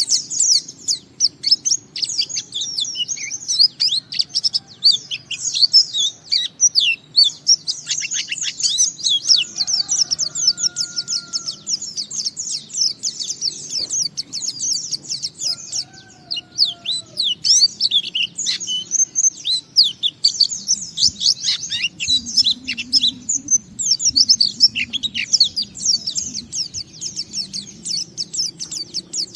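White-eye (pleci) singing a long, fast, continuous twittering song of rapid high notes in unbroken runs, pausing only briefly twice. This is the full song that keepers call ngalas.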